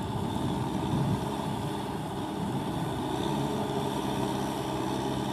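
Kubota M6040SU four-wheel-drive tractor's diesel engine running steadily while tilling a wet, muddy paddy field.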